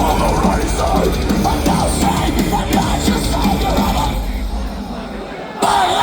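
Live metalcore band playing loud, with heavy electric guitars and drums. The sound thins and drops in level for a moment, then the full band comes back in suddenly near the end.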